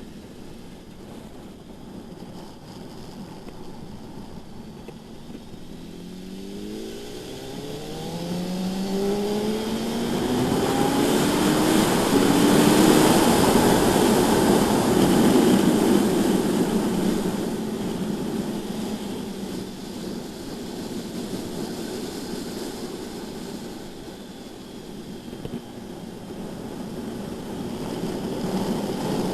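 Sport-bike inline-four engine accelerating hard on track, its pitch climbing in steps through the gears, with a rush of wind noise. It is loudest around the middle, eases off, then builds again near the end.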